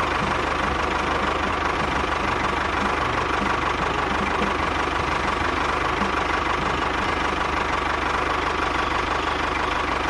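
Small engine running steadily with an even, knocking beat.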